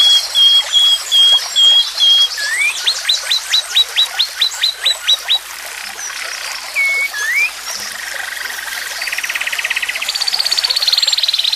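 Wild animal calls in a summer nature soundscape: a run of short, clear high notes, then a faster series of upswept notes at about four a second. After a pause with two single rising glides, a fine rapid trill builds near the end.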